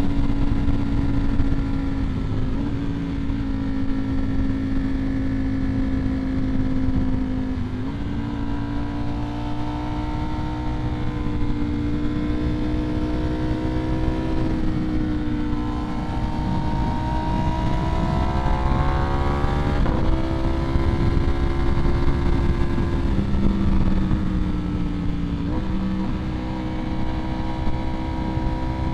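Ducati Streetfighter V4S's V4 engine through an aftermarket Vandemon exhaust, cruising at a fairly steady pitch. About two-thirds of the way in it rises while accelerating, and its pitch steps suddenly a few times, as at gear changes. A steady low rush of wind and road runs underneath.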